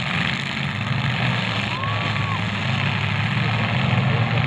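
Engines of several demolition derby cars running with a steady low rumble as the cars move slowly about, with no collisions heard.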